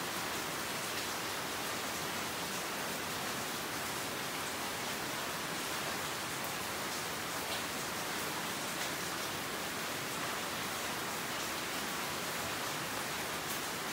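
Steady rain falling on banana leaves: an even hiss with a few faint drop ticks scattered through it.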